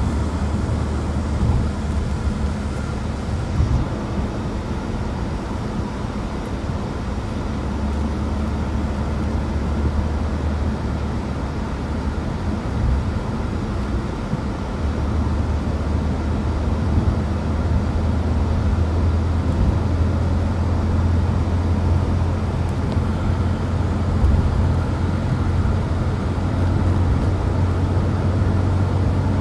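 Moving road vehicle: a steady low engine-and-road rumble that grows a little louder in the second half.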